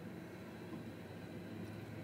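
Coal train's hopper cars rolling past on the rails, a steady low rumble heard from inside a car.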